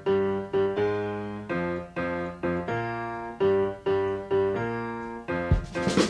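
Background music: a piano or electric keyboard playing slow held chords, struck roughly once or twice a second and fading between strikes, with no singing.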